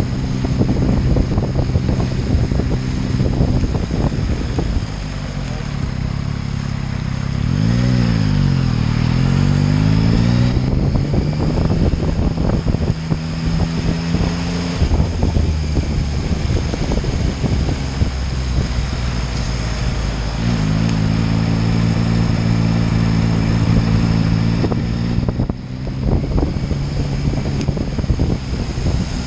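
Motorcycle engine running on the road under a steady rush of wind. Its note falls and then climbs again about eight seconds in, and later holds a steady pitch at cruise.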